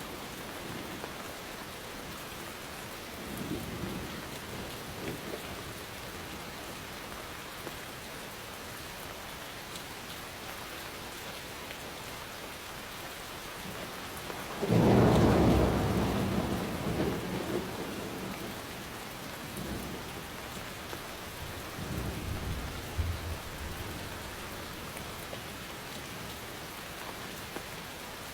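Steady rain falling, with rolling thunder: a faint rumble about three seconds in, a sudden loud crack and rumble about halfway through that fades over several seconds, and another rumble a few seconds later.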